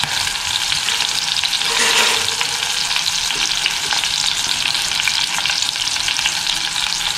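Stuffed baby brinjals frying in hot sesame (gingelly) oil in a stainless steel pot, a steady crackling sizzle.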